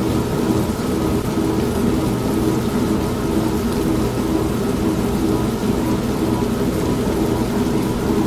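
Steady motor hum of an old manual washing machine running, mixed with steady heavy rain.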